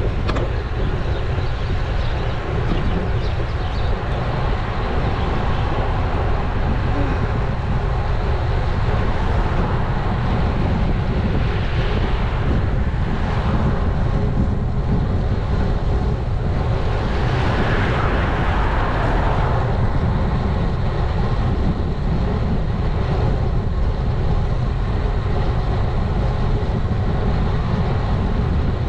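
Wind buffeting an action camera's microphone on a moving road bike, mixed with tyre noise on the road: a steady, loud rumble with a couple of louder swells about twelve and eighteen seconds in.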